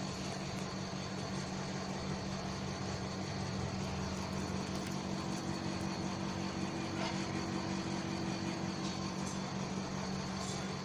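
A steady low mechanical hum, like a running motor or engine, with a second faint tone joining for a few seconds midway.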